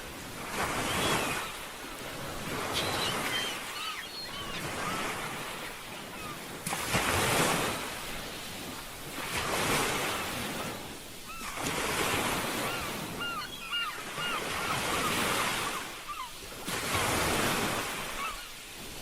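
Ocean surf washing ashore, the noise swelling and ebbing every few seconds. Short high chirping calls sound a few times, about three seconds in and again past the middle.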